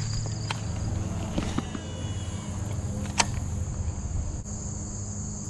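Insects chirring in a steady high-pitched drone over a low steady rumble, with one sharp click a little after three seconds in.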